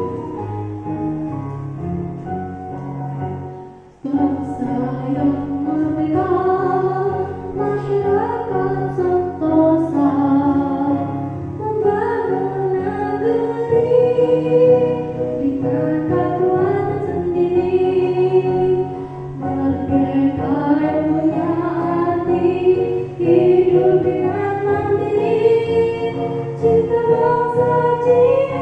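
A group of schoolchildren singing a song together over a steady musical accompaniment, the melody rising and falling; a new phrase starts after a short break about four seconds in.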